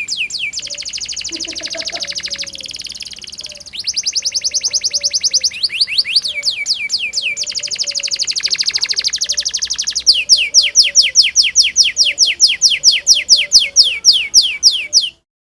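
Domestic canary singing a long rolling song: fast trills of rapidly repeated falling notes that switch phrase every couple of seconds, then a louder phrase of about five chirps a second in the last few seconds. The song cuts off suddenly near the end.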